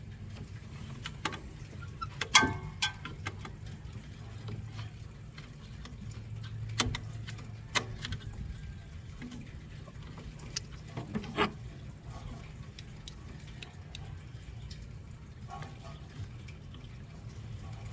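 Scattered sharp clicks and knocks of hand tools and metal parts being worked under a car's hood, the loudest about two and a half seconds in, over a steady low hum.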